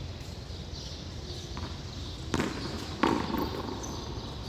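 Two sharp smacks of a frontón handball being played, about two and a half seconds in and again under a second later. The second is the louder.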